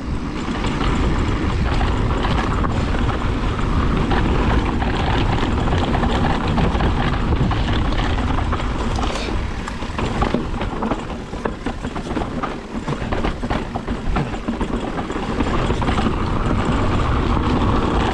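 Mountain bike rolling fast over a rough dirt trail: steady wind rush on the camera microphone with tyre noise and frequent small rattles and knocks from the bike.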